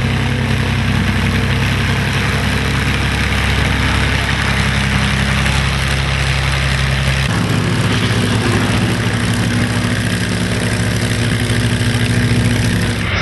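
Piston aircraft engine running steadily at low power, its note changing abruptly about seven seconds in.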